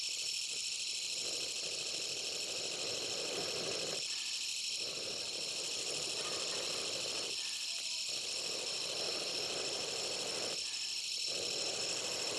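A steady chorus of insects, with a rushing hiss underneath that runs for about three seconds, breaks off for a moment, and starts again, three times over.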